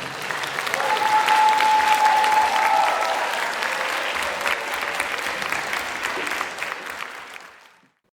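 Audience applauding at the end of a brass band piece, a dense patter of clapping that fades out near the end.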